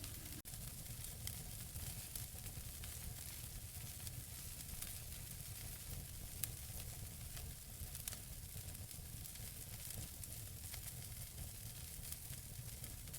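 Wood fire burning in a fireplace: a steady soft hiss and low rumble, with frequent small, sharp crackles and pops from the burning logs.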